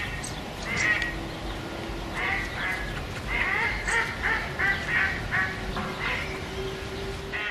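Ducks quacking: a run of short quacks, few at first and then coming quickly one after another.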